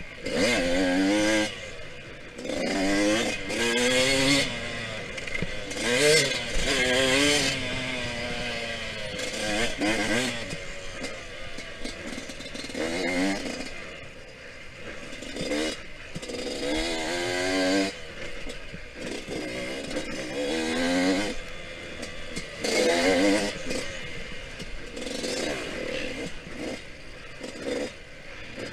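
Yamaha YZ125X 125cc two-stroke single-cylinder engine revving hard and rising in pitch, then backing off, again and again, as the bike is ridden on and off the throttle around a dirt track.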